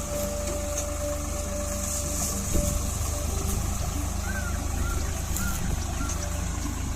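Swaraj tractor's diesel engine running steadily, with a single thump about two and a half seconds in.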